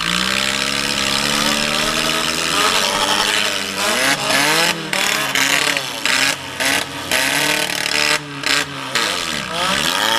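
Demolition derby car's engine heard from inside the stripped-out cabin, revving up and down repeatedly. Over the second half the sound cuts out briefly several times.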